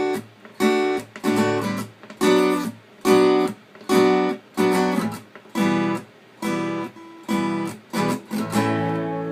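Acoustic guitar strummed in short, evenly spaced chords, about one every 0.8 seconds, each cut off quickly, ending on a chord left ringing.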